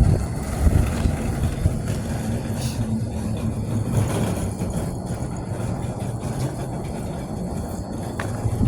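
A loud, steady, low machine-like rumble from an unseen outdoor source, with a couple of sharp thumps in the first second.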